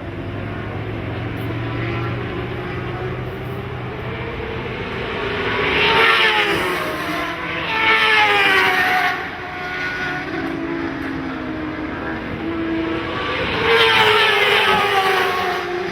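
Racing motorcycles passing at speed on a circuit. Their high-revving engines swell three times as bikes go by, and each pass drops in pitch as the bike goes away.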